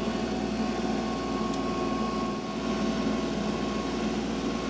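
An engine running steadily with an even hum, no change in speed.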